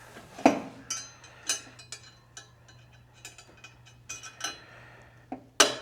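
Metal hardware and tools clinking: a string of irregular sharp, ringing clinks and taps as a bolt is worked into a motorcycle hitch bracket whose holes don't line up.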